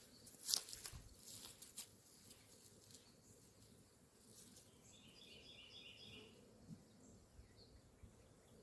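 Faint outdoor quiet with a few light knocks in the first two seconds, then a short run of rapid high chirps from a bird about five seconds in.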